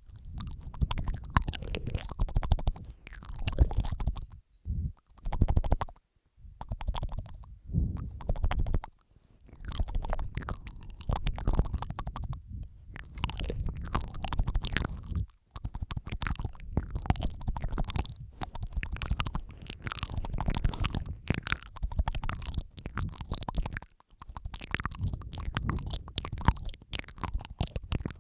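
Layered ASMR mouth sounds very close to the microphone: a dense run of wet clicks and smacks, with a few brief pauses.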